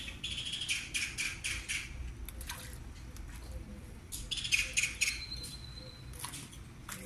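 Birds calling: a quick run of sharp chirps, about four a second, through the first two seconds, another run about four seconds in, then a thin, steady, held whistle for about a second.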